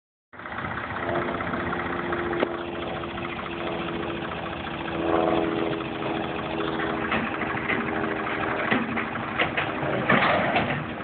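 Tractor engine running steadily, picking up briefly about five seconds in, with a few sharp knocks and clatters in the second half.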